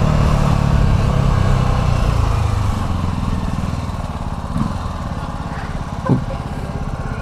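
Motorcycle engine running while riding through city traffic; the engine note is loudest for about the first three seconds, then eases off. Two brief high chirps come in the second half.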